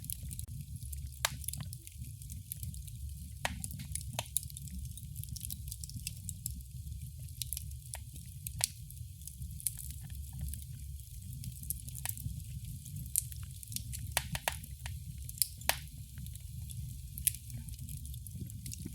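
Fire burning in a fireplace, crackling: irregular sharp pops and snaps over a steady low rumble and a soft hiss.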